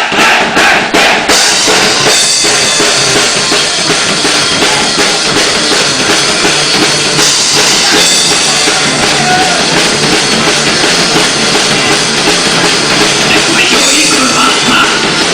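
Rock band playing live. About a second of quick, evenly spaced drum hits, then the full band comes in loud and dense with drums.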